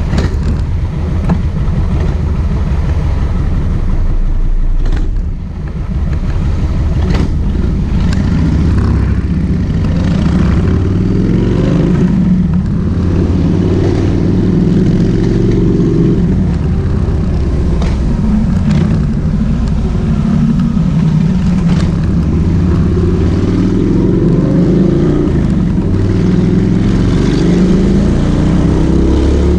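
Kawasaki VN1600 Mean Streak's V-twin engine under way, pulling up through the revs several times with the pitch rising and then dropping back at each gear change. It briefly eases off about five seconds in.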